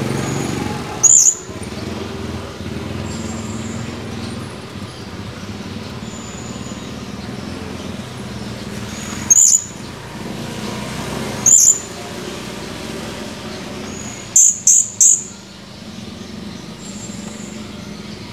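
Blue-crowned hanging parrot (serindit) giving short, shrill, high-pitched calls: single calls about a second in, at around nine and around eleven and a half seconds, then three in quick succession near the end. A steady low rumble like distant traffic runs underneath.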